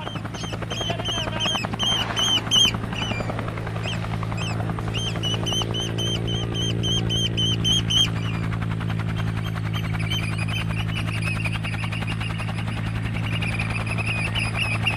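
Eurasian oystercatchers piping: rapid runs of shrill repeated calls, about four a second, breaking off twice. Under them runs a steady low engine hum, with a slow gliding tone in the middle.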